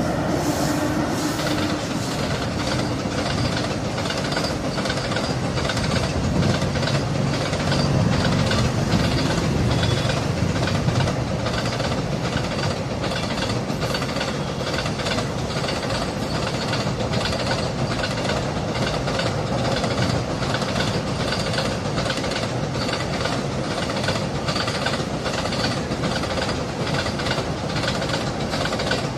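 Container freight train running past: a low locomotive hum during the first ten seconds or so, then the steady rumble and rhythmic clickety-clack of the container wagons' wheels.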